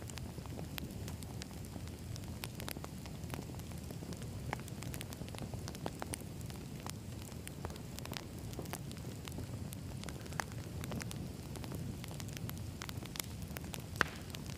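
Campfire logs burning: a steady low rumble of flame with frequent sharp crackles and pops of the wood, one louder pop near the end.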